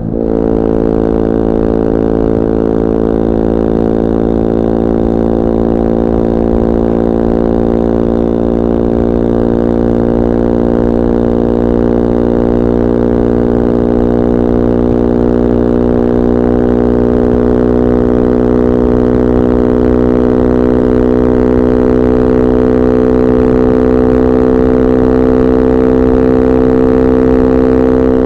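Bullit Hero 250's CFMoto-built 250cc four-stroke engine pulling steadily on the road, revs climbing slowly and evenly after a brief dip at the start, then dropping in pitch near the end.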